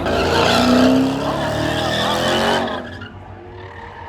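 Car engine revving high with its rear tyres spinning and squealing in a burnout, the pitch gliding up and down. It is loud for about three seconds, then drops away.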